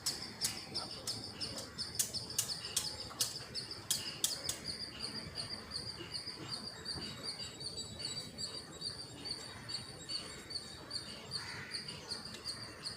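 Steady, rapid high-pitched chirping, repeated several times a second, with a run of sharp clicks in the first few seconds.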